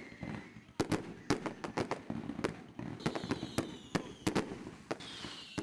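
Fireworks going off: an irregular string of sharp bangs and pops, with a falling whistle about three seconds in and again near the end.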